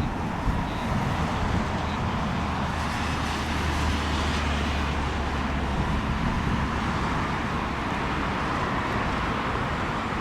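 Boeing 787-9 jet airliner landing, its engines giving a steady rumble with a low hum that fades about six seconds in.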